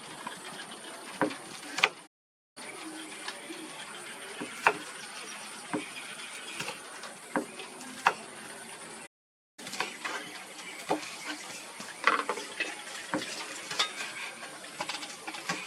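Someone eating spicy fried crab close to the microphone: irregular sharp cracks and clicks as crab shell is bitten and broken, along with chewing.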